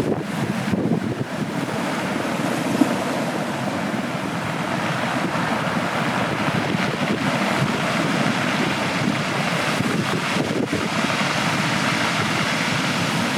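Ocean surf washing onto the shore in a steady, continuous rush, with wind buffeting the microphone.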